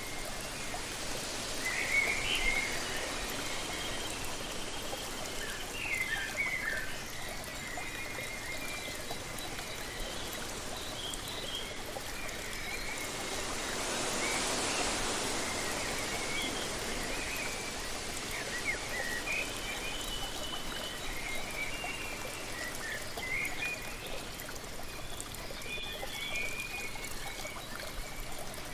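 Steady rushing water of a waterfall with scattered short bird chirps and calls throughout. The rush swells briefly about halfway through.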